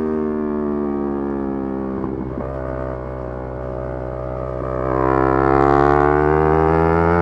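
Yamaha R3 parallel-twin engine running at high revs, its pitch easing down for the first few seconds as the throttle is eased, then climbing and getting louder from about five seconds in as it accelerates again.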